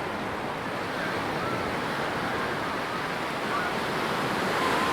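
Ocean surf washing onto a sandy beach: a steady rush of waves that swells slightly near the end.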